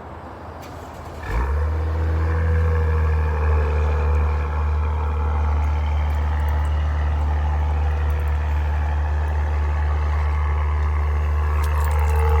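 2021 Acura TLX Type S's 3.0-litre turbocharged V6 cold-starting by remote start: it fires about a second in and settles into a steady idle.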